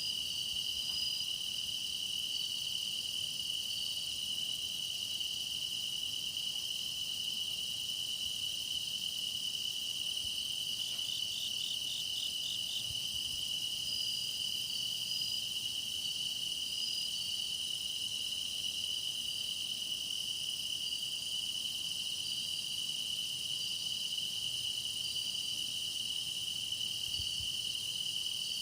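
Grass insects singing in chorus: one steady, unbroken high trill, with other insects chirping on and off above it and a short run of quick chirps about eleven seconds in.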